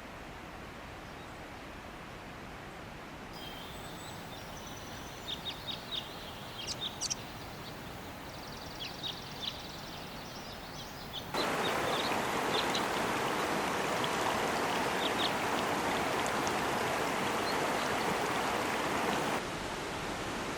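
Clear mountain river rushing over rocks, with small birds chirping at intervals during the first half. About halfway through the water abruptly becomes much louder and closer, then drops back slightly near the end.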